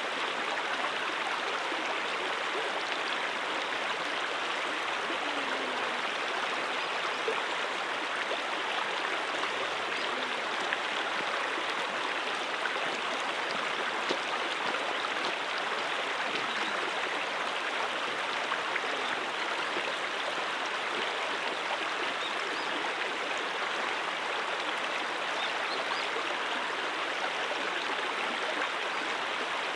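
Mountain stream water running and splashing over rocks, a steady, even rushing.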